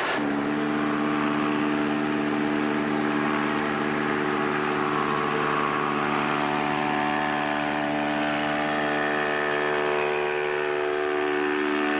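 A long, steady, horn-like tone with many overtones, starting suddenly and held unchanged.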